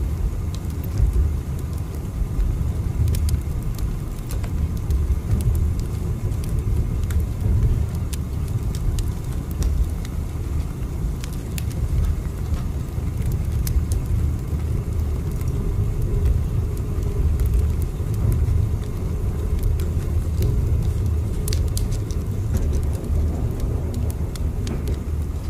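Steady low rumble of a moving train, with faint scattered clicks over it.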